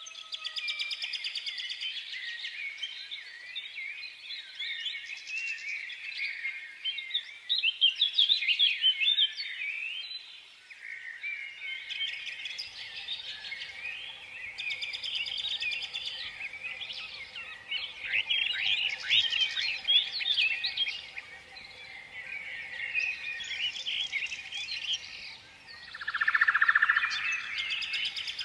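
Many small birds, sparrows, chirping together in a dense chorus of overlapping short chirps. A faint steady hum comes in partway through, and a short buzzy sound stands out near the end.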